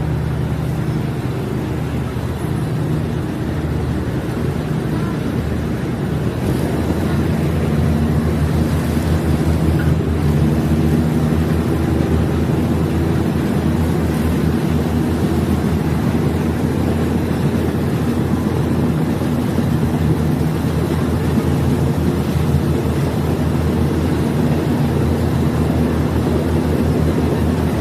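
Diesel multiple-unit railcar running, its diesel engine droning steadily; the engine gets louder about seven seconds in and stays there.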